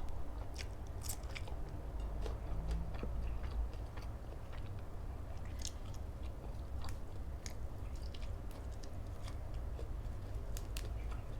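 Close-up chewing and mouth sounds of someone eating, with irregular sharp clicks and smacks.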